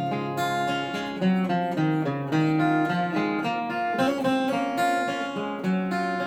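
Acoustic guitar strumming chords with no singing, the chords changing every second or so.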